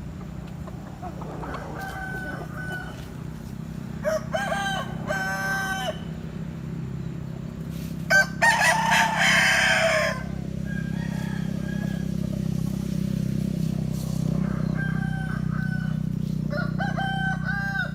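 Domestic roosters crowing, about five crows in a row, with the loudest about eight seconds in, over a steady low hum.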